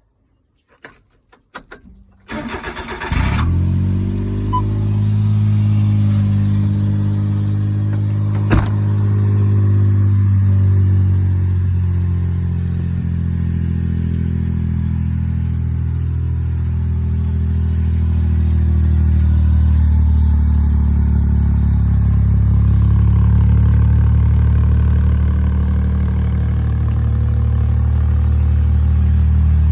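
1988 Suzuki Carry kei truck's small three-cylinder engine with an aftermarket muffler: after a few clicks the starter cranks briefly and the engine catches about three seconds in. It then settles into a steady idle through the aftermarket exhaust, with a single sharp click about eight seconds in.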